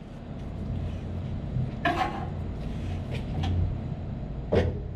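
Steady low machinery hum with a few sharp knocks and clicks from work on a 7.5 kW motor being shifted into alignment. The loudest knocks come about two seconds in and near the end.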